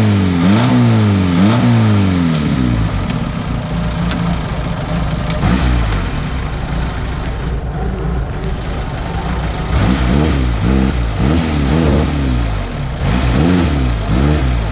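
Off-road vehicle engine revved in quick repeated throttle pulses, about two a second, rising and falling each time. It settles to a steady low running for several seconds in the middle, then is pulsed again the same way near the end.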